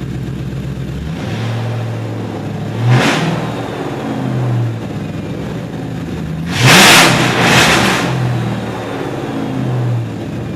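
Ford Mustang GT 4.6-litre V8 on straight pipes with no mufflers, revved twice from idle and dropping back to idle near the end, with a loud blast at the top of each rev. It runs smoothly now that crossed plug wires on cylinders 5 and 6 have been corrected, but the exhaust is very loud.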